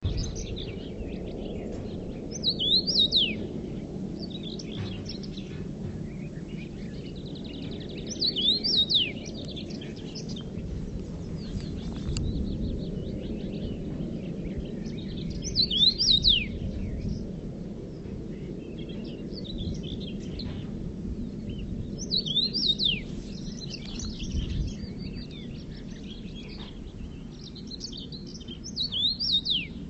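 Songbirds: a loud phrase of quick high notes sweeping downward, repeated about every six to seven seconds, with softer chirps in between over a steady low rumble.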